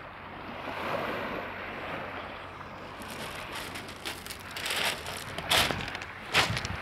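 Sea surf washing at the shore with wind on the microphone: a steady rush at first, then from about halfway a run of short, louder surges.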